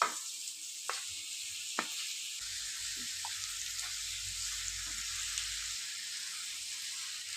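Marinated chicken sizzling steadily in hot oil in a pan with fried onions and curry leaves. There are a few sharp clicks in the first two seconds, and the sizzle cuts off suddenly at the end.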